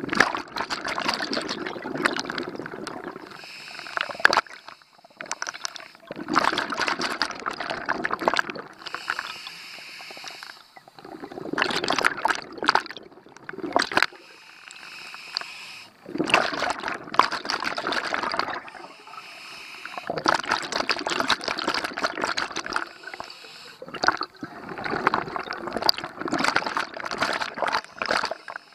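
Scuba diver breathing through a regulator underwater: six long bursts of exhaled bubbles, about one every four to five seconds, with quieter inhales between them.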